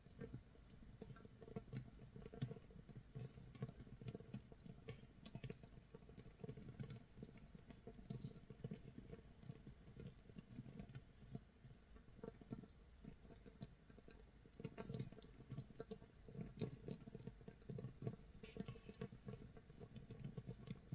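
Makgeolli starter mash (mitsul) fermenting in a crock 24 hours in: a faint, irregular crackling and popping of gas bubbles breaking in the mash, like light rain or toasting rice crust.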